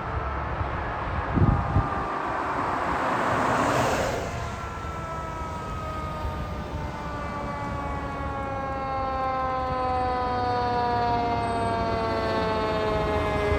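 Emergency vehicle siren whose pitch falls slowly and steadily over about ten seconds. Before it, about a second and a half in, there are a couple of low thumps and then a brief rush of noise.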